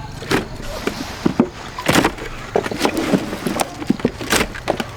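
Irregular knocks and clatter, some sharp and loud, over a steady low hum.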